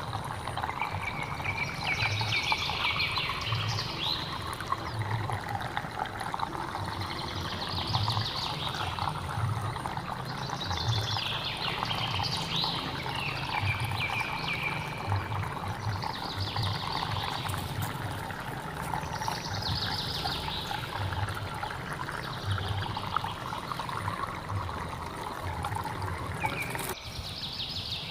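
A hill stream trickling and splashing steadily, with high chirping calls repeating every few seconds over the water. The sound briefly drops out about a second before the end.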